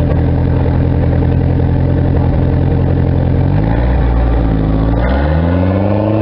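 Lifted 1979 Ford truck's engine running at steady revs, dropping off about three and a half seconds in, then revving back up near the end as it works to get off the rocks.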